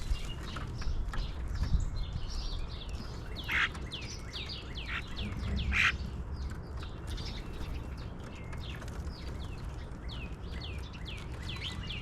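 Several small birds chirping, with many short chirps that slide downward in pitch, coming several times a second, over a steady low rumble.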